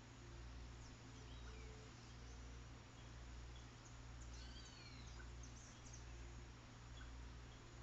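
Faint wild birds chirping in short, scattered calls, with a brief cluster of falling chirps about halfway through, over a steady low hum.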